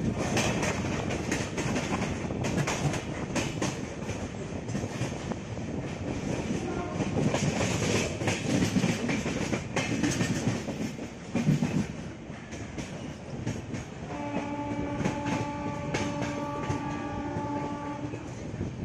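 Moving passenger train heard from its open doorway: a rushing noise with wheel clatter over the rails. About fourteen seconds in, a train horn sounds one long steady note for about four seconds, with a couple of short breaks.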